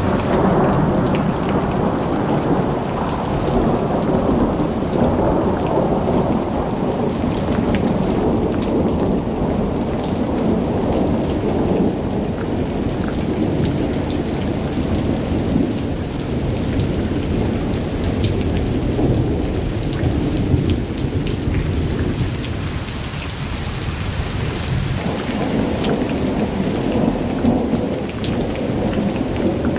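Thunderstorm: steady rain falling, with a continuous low rumble of thunder under it that eases somewhat past the middle and swells again near the end.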